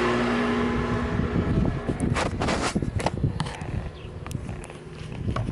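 Takegawa 124cc four-valve single-cylinder engine of a custom Honda Monkey, breathing through a Yoshimura Cyclone up-muffler, settling from a rev into a lumpy, uneven idle. The engine note drops away in about the first second, and a few sharp clicks come a couple of seconds in.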